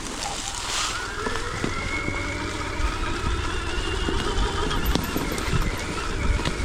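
Stark Varg EX electric dirt bike's motor whining, rising in pitch over the first couple of seconds and then holding steady as the bike pulls along. Under it there is a constant low rumble with scattered knocks from riding over rough ground.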